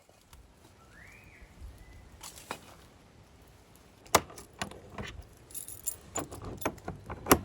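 Metal keys jangling and clinking, with scattered sharp clicks and knocks, the loudest about four seconds in and again near the end.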